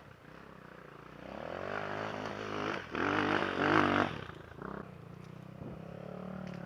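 Enduro motorcycle engine revving up under throttle from about a second in, loudest near the middle, then easing back to a steady lower note.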